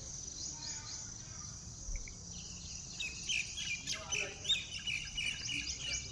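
Birds chirping in quick, short notes over a steady high insect drone. The chirps crowd in from about two seconds in.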